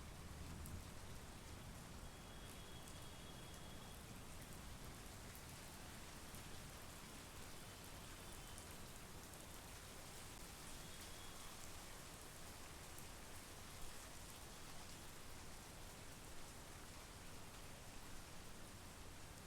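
Steady, soft monsoon rain, with individual drops ticking close by over the even hiss, one sharper drop about two-thirds of the way through.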